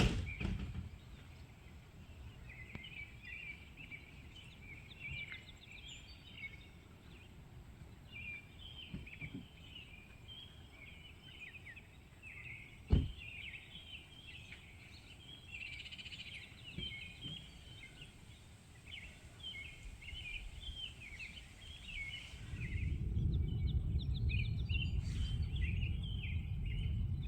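Songbirds singing steadily, with one sharp knock about halfway through. Near the end a low rumble of thunder rolls in and keeps going.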